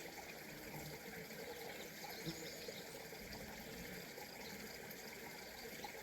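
Small brook running, a faint, steady trickle of flowing water.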